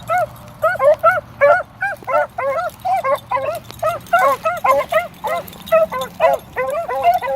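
A brace of beagles giving mouth on a track: short yelping hound bays, several a second, two voices overlapping at different pitches.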